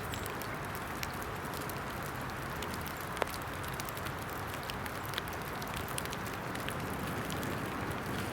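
Small fire of damp twigs and pine chips crackling with scattered sharp pops, one louder about three seconds in, over a steady hiss of rain falling.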